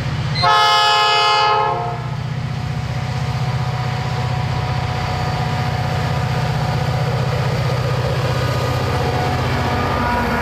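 Diesel locomotive horn sounding one short chord blast about half a second in. Under it, the EMD diesel locomotives' engines run with a steady, pulsing drone as the train passes.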